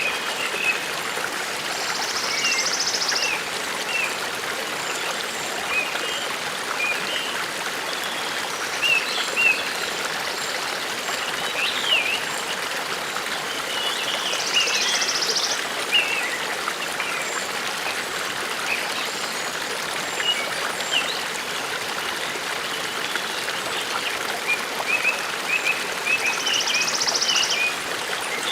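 A forest brook running steadily, with birds chirping throughout. A short, buzzy high trill comes three times, about twelve seconds apart.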